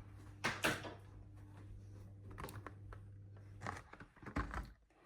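Clicks and knocks of a Nespresso coffee machine's parts being handled, over a low steady hum that cuts off about three and a half seconds in.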